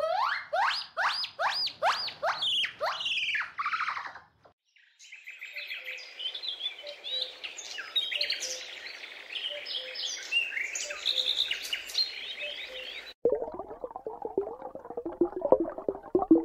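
A gibbon's call: a fast run of rising-and-falling whoops, ending about four seconds in. Then birds chirping for about eight seconds, cut off abruptly by a dense crackling sound.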